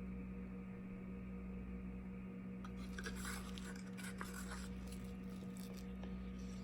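Light clicks and scraping of plastic paint cups and bottles being handled during acrylic paint pouring, starting a little under three seconds in, over a steady low hum.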